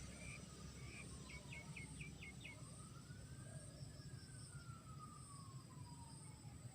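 Faint rural ambience: a steady high insect drone over a low rumble, with a small bird giving a quick series of about six short chirps between one and three seconds in. A faint tone slowly rises and then falls in pitch over several seconds.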